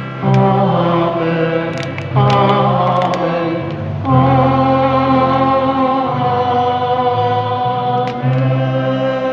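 Church choir singing a hymn over held accompanying chords, the harmony shifting every couple of seconds, with a few brief clicks near the start.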